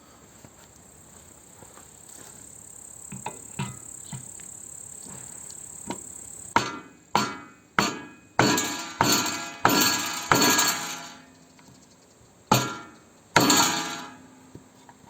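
Hammer blows on metal, about nine sharp strikes in two groups, each ringing out briefly, as a part is driven into a mower deck spindle housing fitted with new bearings.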